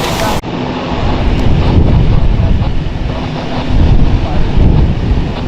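Strong wind buffeting the microphone: a loud, low, gusty rumble that swells twice, with a faint steady hum underneath.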